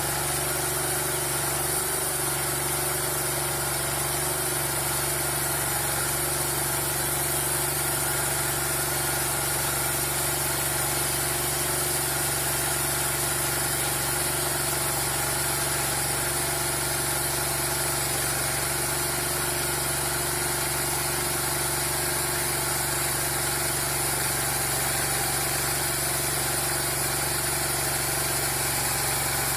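Turner sawmill running at a steady, unchanging speed, its engine-driven machinery giving a constant drone with several fixed tones.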